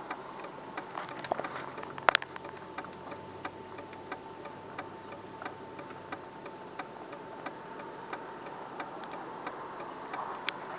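Steady ticking inside a car, about three ticks every two seconds, over a faint steady hum; one louder click about two seconds in.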